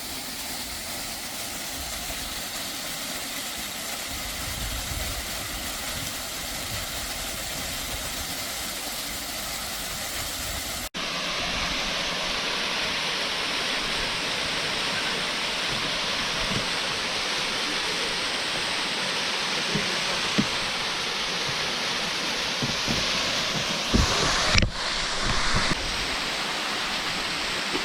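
Waterfall rushing in a steady roar of falling water. It cuts abruptly about a third of the way in and comes back louder and hissier. A few low thumps sound near the end.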